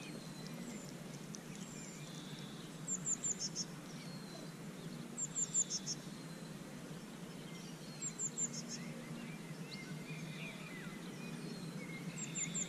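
A small bird singing a short phrase of quick, high, slightly descending notes, repeated four times a few seconds apart, over steady low outdoor background noise.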